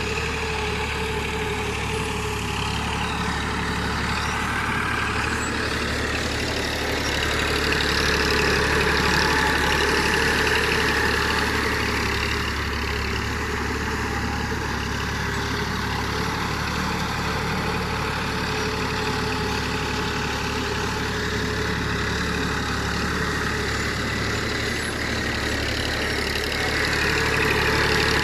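Tafe 45 DI tractor's diesel engine running steadily, growing louder for a few seconds a third of the way in and again near the end.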